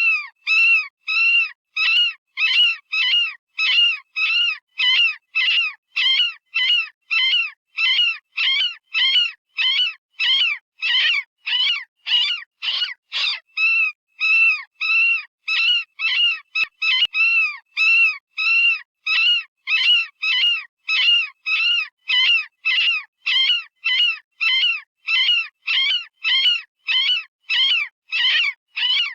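Synthetic rabbit distress call from animal sound software, the kind used as a predator-hunting call: short high-pitched screams repeated evenly about twice a second.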